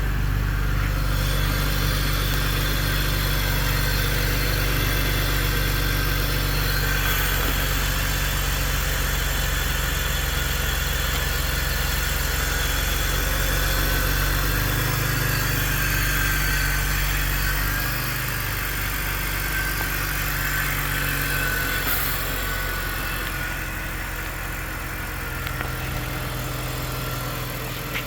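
2001 BMW Z3 Roadster engine idling steadily after a cold start; about eighteen seconds in the idle note shifts and drops a little quieter, as the fast idle settles.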